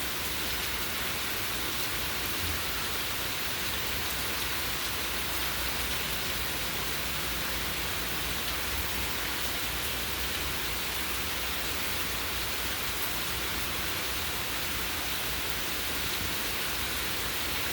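Steady hiss of heavy hurricane rain falling while the wind is calm.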